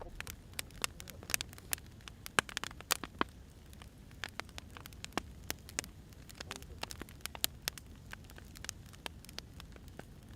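Burning firewood crackling: irregular sharp pops and snaps, several a second, over a low steady rumble of the fire.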